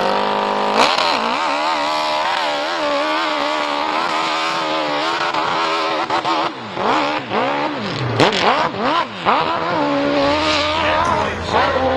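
Hill-climb motorcycle engine at high revs, its pitch rising and falling with the throttle. From about six seconds in, the revs swing sharply up and down, with a sharp crack about eight seconds in.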